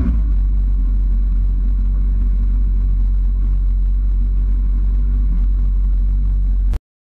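Sport motorcycle engine running at low speed, heard from the bike as a steady low rumble that cuts off abruptly near the end.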